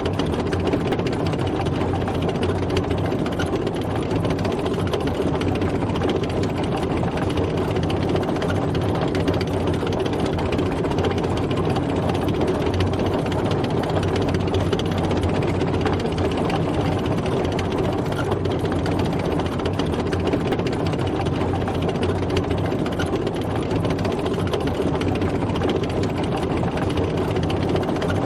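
Tank driving, its engine running steadily at an even pitch.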